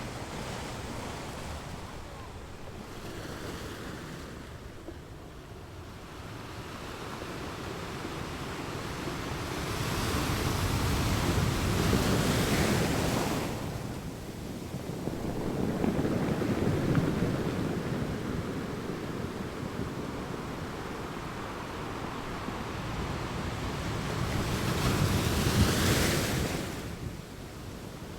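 Ocean waves breaking and washing up on a beach: the surf swells and ebbs, with three louder surges, the last near the end.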